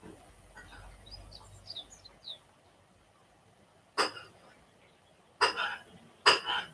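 A bird gives a few quick, high chirps, then three short, loud, harsh sounds break out: one about four seconds in and two more close together near the end.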